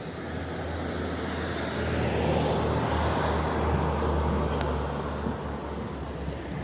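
A passing motor vehicle: a low rumble with road noise that grows louder in the middle and then fades.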